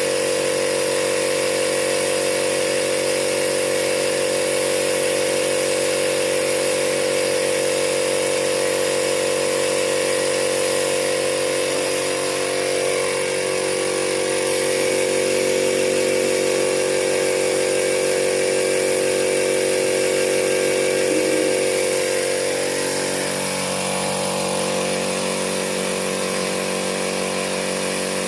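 A power tool's motor running steadily, its pitch shifting a little around the middle and again near the end.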